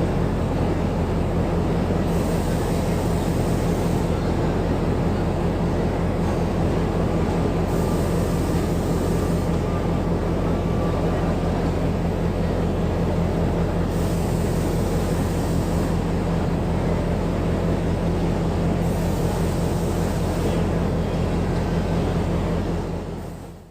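Train's diesel engine running steadily, a low hum with a rushing noise over it, fading out near the end.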